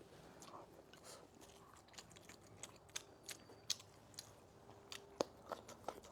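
Faint close-up chewing of a mouthful of rice and soft fermented tofu, with scattered wet mouth clicks and smacks.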